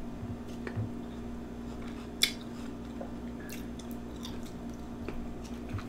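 Close-miked chewing: soft wet mouth clicks from eating grapes, with a sharper click about two seconds in, over a faint steady hum.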